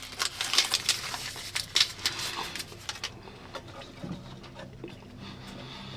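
Dense crinkling and crackling for about three seconds, then fewer, scattered clicks.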